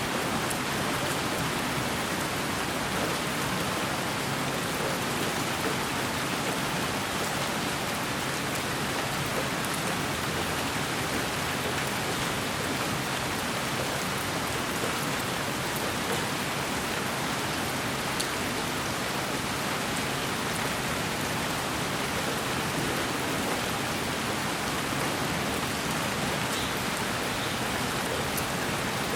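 Continuous white noise: an even, steady hiss that never changes in level.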